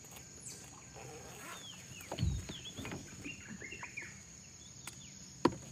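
Short chirping bird calls, several in a row with swooping pitch, over a steady high insect buzz. A dull knock sounds about two seconds in and a sharp click near the end.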